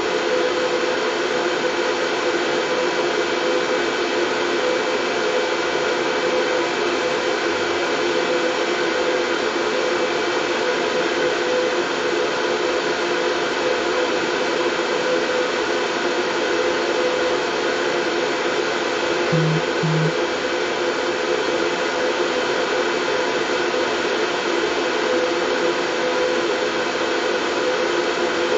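Steady white noise for soothing a colicky baby to sleep: an even, unbroken hiss with a stronger low hum under it, and two brief low blips about two-thirds of the way through.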